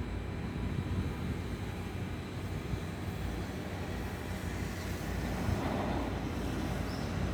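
The twin Pratt & Whitney PW127M turboprop engines of an ATR72-600 running with a low, steady rumble that slowly grows louder.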